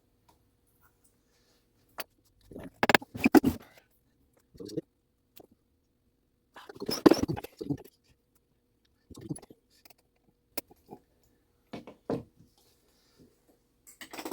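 Parts of a mechanical clock movement being handled and fitted together by hand: scattered clicks and short clattering handling noises, loudest about three seconds in and again about seven seconds in.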